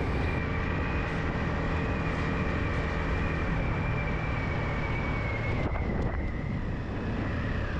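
Yamaha MT-15's 155 cc single-cylinder engine running steadily while riding, with wind noise on the microphone. A thin high whine runs over it and drops slightly about six seconds in.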